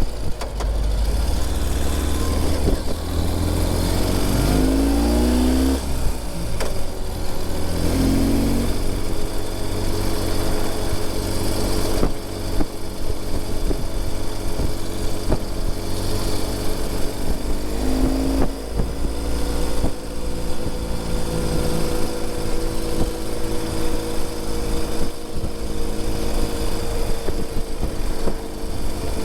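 2020 Ural Gear Up sidecar motorcycle's air-cooled boxer twin engine running under way, its note rising and then dropping a few times as it accelerates and shifts up, over a heavy low rumble.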